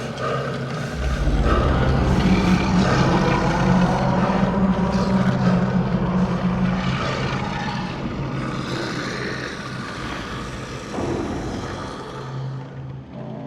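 Sound-designed horror ambience: a dense, low droning rumble with steady low tones that swells about a second in and slowly eases off in the second half.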